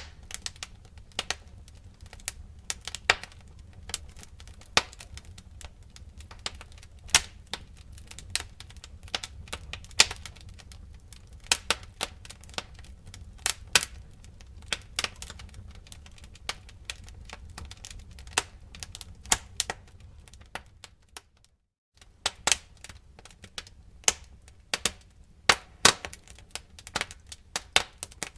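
Fire crackling: irregular sharp pops and snaps over a steady low rumble. It cuts out for a moment about three quarters of the way through.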